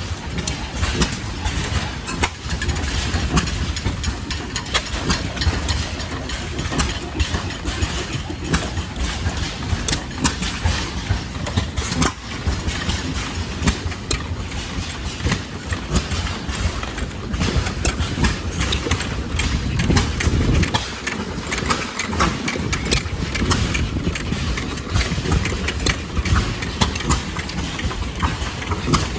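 Antique stationary gas engines running, with many sharp, uneven exhaust pops over a steady low rumble.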